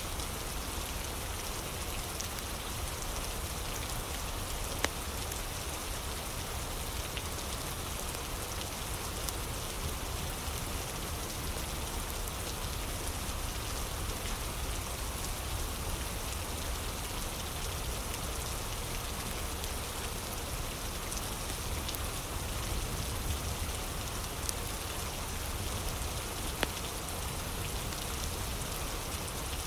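Steady rain ambience, with a few sharp pops from a crackling fire, one about five seconds in and a couple near the end.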